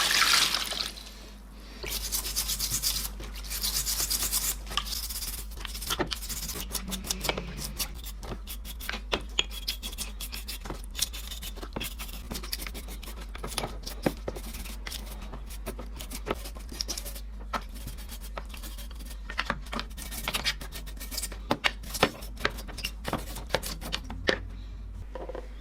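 A brush scrubbing the drill's metal parts by hand during rust removal: a couple of longer scrubbing strokes at first, then many short scratches and clicks.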